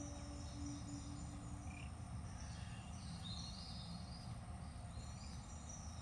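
Outdoor ambience: faint high bird chirps and twitters, a few seconds in and again near the end, over a steady low rumble. A held low musical tone fades out in the first two seconds.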